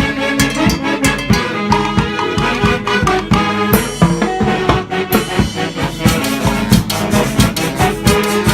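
A Latin dance band (orquesta) playing an upbeat piece, with brass over a steady percussive beat.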